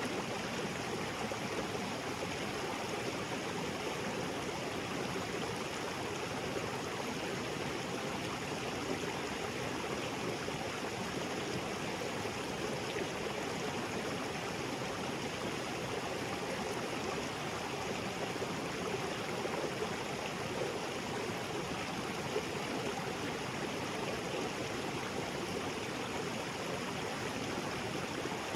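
Small waterfall spilling into a rocky creek: steady rushing and splashing water with a gurgle, unchanging throughout.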